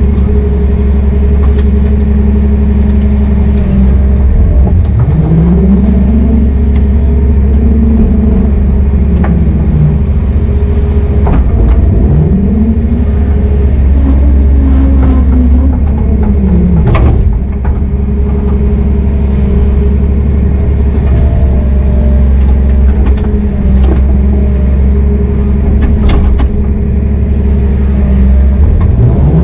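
Heavy diesel engine running steadily, its pitch rising and falling in several swells as it is revved up and let back down, with a few brief knocks.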